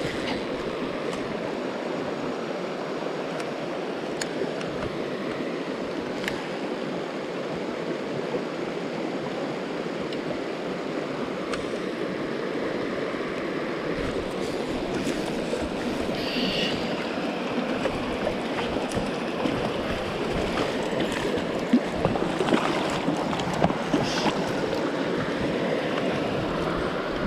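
Mountain stream water rushing steadily over rocks, with a few sharp clicks and knocks in the second half.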